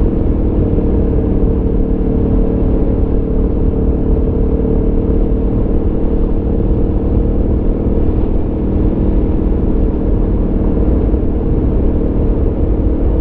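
Aprilia Tuono V4 motorcycle's V4 engine running at steady, nearly constant revs while cruising.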